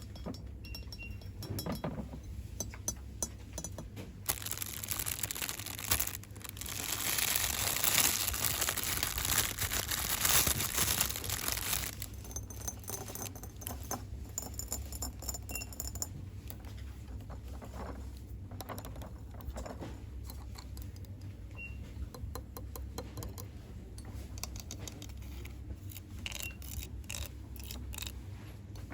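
Fingers tapping, clicking and rustling small store-bought items and their plastic packaging as ASMR triggers. There is a louder stretch of crinkling from about six to twelve seconds in.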